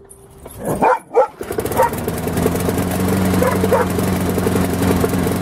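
Briggs & Stratton push-mower engine being pull-started: two short loud sounds about a second in, then it catches and runs steadily, starting now that its fouled spark plug has been replaced with a new one. A few short sounds stand out over the running engine.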